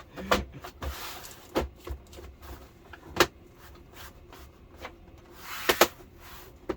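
Handling noises while the TV's plastic back cover is fitted: a series of sharp knocks and clicks, the loudest about three seconds in and a close pair near the end, with scraping between.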